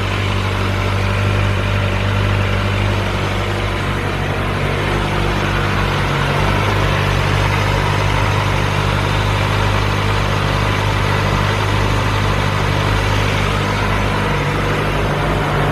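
Kawasaki ZX-25R SE's 249 cc inline-four engine idling steadily through its stock muffler.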